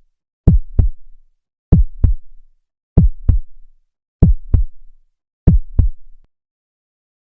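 Heartbeat sound effect: five slow double thumps, lub-dub, about one every second and a quarter, stopping about six seconds in.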